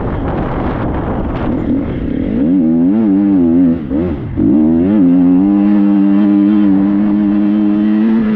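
Triumph 250 motocross bike's four-stroke single-cylinder engine under load. Revs rise and fall for a few seconds, with a brief throttle chop about four seconds in, then hold at steady high revs.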